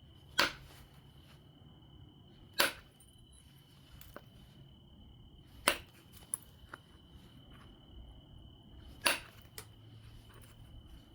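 Obsidian being knapped: four sharp striking cracks a few seconds apart as flakes are knocked off a biface, with a few lighter clicks between them.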